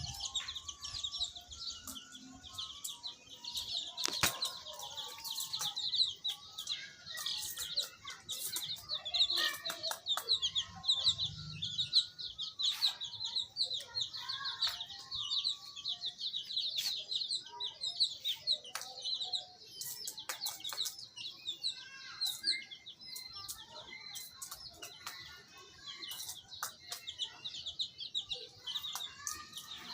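A brood of baby chicks peeping continuously, many short high chirps overlapping, with scattered sharp clicks and taps among them.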